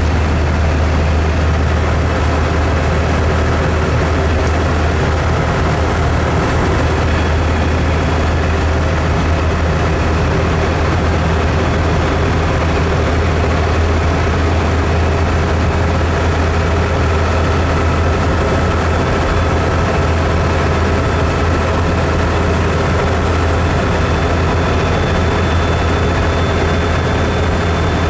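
Steady low engine and road drone of a vehicle, even in level, with a thin high whine over it.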